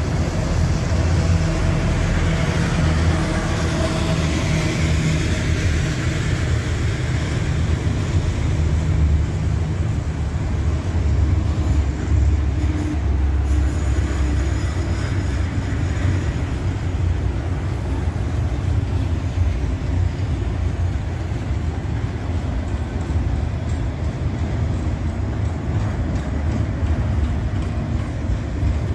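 Freight train of autorack cars rolling slowly on the rails as it slows to a stop, a steady heavy low rumble of wheels on track.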